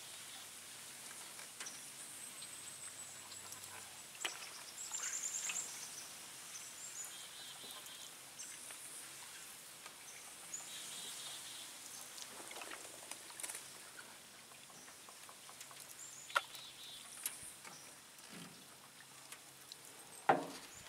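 Birds chirping and singing in short, high-pitched phrases and trills, with a few sharp knocks here and there, the loudest one near the end.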